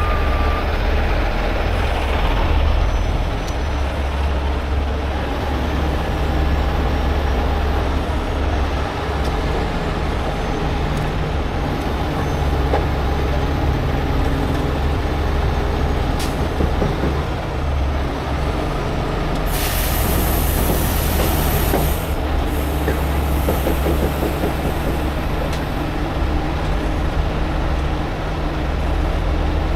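Heavy diesel truck engines running steadily, with a burst of air hissing out, like an air brake release, about twenty seconds in, lasting about two seconds.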